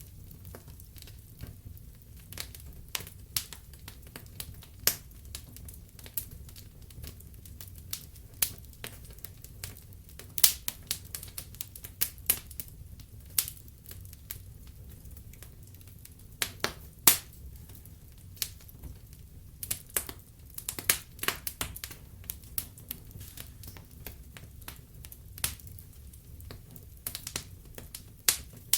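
Logs burning in a fireplace, crackling and popping in irregular sharp snaps over a steady low rumble of the flames, with the pops thickest in the middle stretch.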